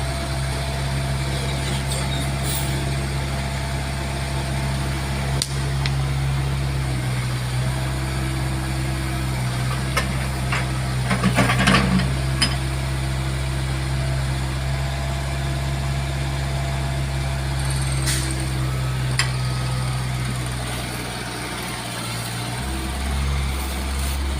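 Backhoe's diesel engine running steadily as the machine works to climb onto a truck, its note shifting a couple of times, with a few metallic clanks about halfway through.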